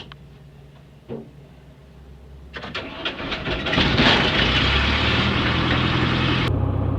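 Cessna 162 Skycatcher's Continental O-200 four-cylinder engine cranking on the starter from about two and a half seconds in. It catches about a second and a half later and settles into a steady run.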